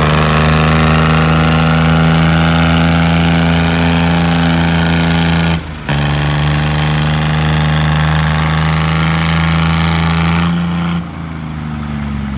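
Tractor engine running loud at steady high revs. It cuts out for a moment about halfway, then resumes. Near the end it drops away with a falling pitch as the revs come down.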